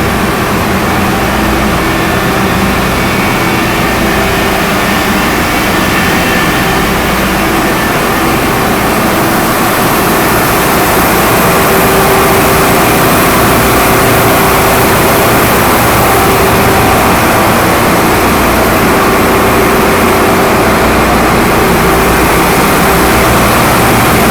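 Loud, steady drone of ship's engine-room machinery: a deep running hum with several steady tones over dense mechanical noise, growing slightly louder about halfway through.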